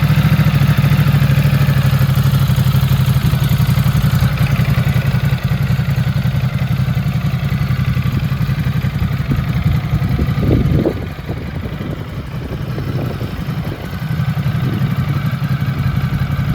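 Ducati Multistrada 950's 937 cc L-twin engine idling steadily. About eleven seconds in it turns quieter for a few seconds, then comes back up to its earlier level.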